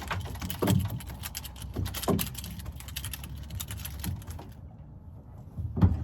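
Fishing reel being cranked fast to bring in a hooked fish, a rapid run of mechanical clicks that stops about four and a half seconds in.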